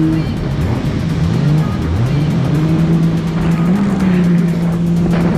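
Jet ski engine running at speed, its note rising several times as the throttle is opened, then holding steady at high revs.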